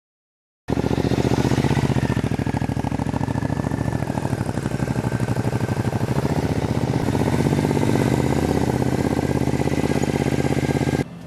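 2002 Triumph America's parallel-twin engine running at a steady speed with a fast, even pulsing exhaust note. It starts abruptly about a second in and cuts off suddenly near the end.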